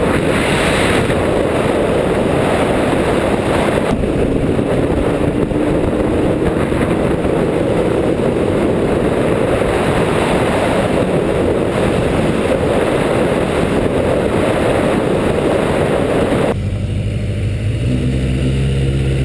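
Four-cylinder motorcycle with a 4-into-1 exhaust running while riding, its engine note under heavy wind rush. About three-quarters of the way through, the wind rush drops suddenly and a steady, low engine note is left.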